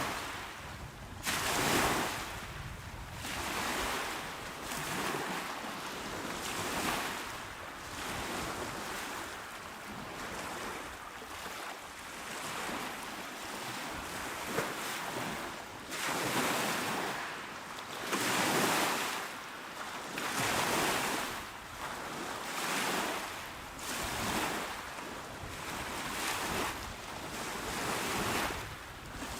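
Small waves breaking and washing up onto a shore, one swell of hiss every two to three seconds, a few a little stronger than the rest.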